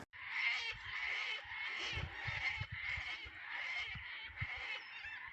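Many birds calling together in a continuous, noisy chatter of short screeching and warbling calls, with soft low thumps underneath.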